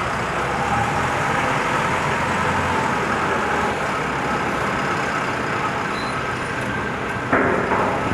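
Self-loading concrete mixer's diesel engine running steadily, with a sudden louder, pitched sound starting about seven seconds in.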